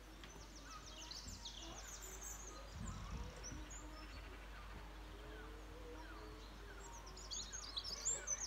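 Faint songbird song: quick runs of high chirps about a second in and again near the end, over a low outdoor hum. A brief low rumble about three seconds in.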